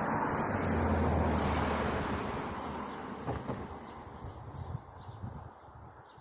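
A vehicle passing by, its noise swelling to a peak about a second in with a low engine hum, then fading away.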